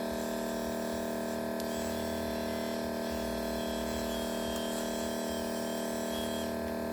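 Steady electrical hum from bench repair equipment, several pitched tones held evenly throughout, with a faint thin high tone wavering over it in the middle.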